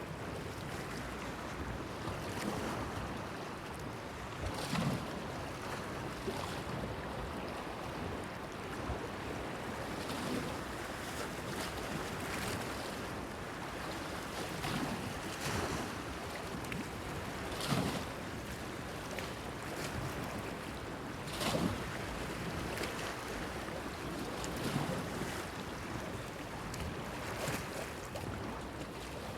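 Small waves lapping and slapping against a breakwater pier: irregular splashes every few seconds over a steady wash of water.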